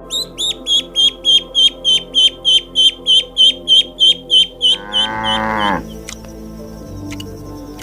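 A bird chirping rapidly, about four high chirps a second, for nearly five seconds, then a short low call that falls at the end, cow-like, about five seconds in. Background music plays underneath.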